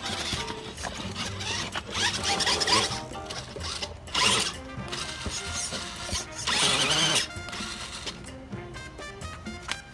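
Radio-controlled monster truck crawler's electric motor and gears whirring in three short bursts, over background music with steady tones.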